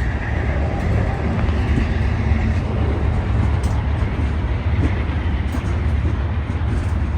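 Train passing with a steady low rumble and rail noise.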